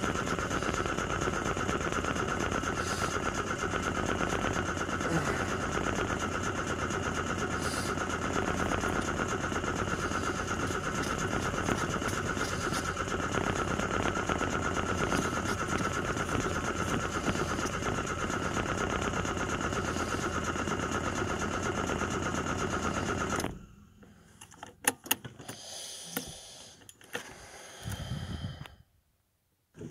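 Vehicle engine idling, heard from inside the cab, with a steady high whine over it. About three-quarters of the way through it cuts off abruptly, followed by a few sharp clicks and knocks.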